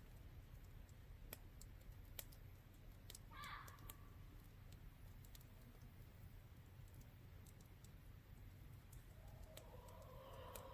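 Near silence with faint, scattered crackling clicks from a small wood campfire, and a brief faint chirp about three and a half seconds in.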